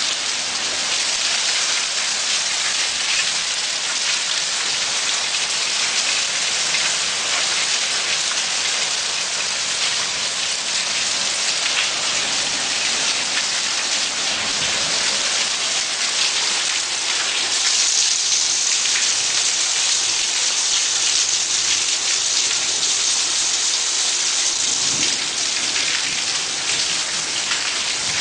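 Heavy rain mixed with hail pelting down: a dense, steady hiss of drops with many small hits of hailstones striking surfaces, growing a little louder about two-thirds of the way through.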